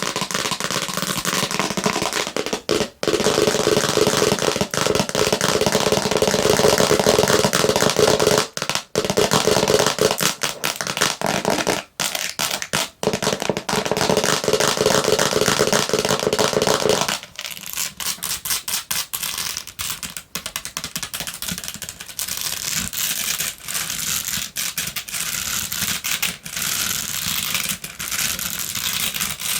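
Long fingernails tapping and scratching fast on a basket: a dense, rapid run of clicks and scrapes. About seventeen seconds in, the sound turns thinner and lighter.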